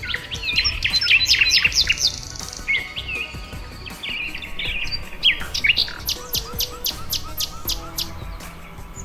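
Several songbirds chirping and calling at once, in quick overlapping notes that sweep up and down, with a run of short repeated trill notes about two thirds of the way through.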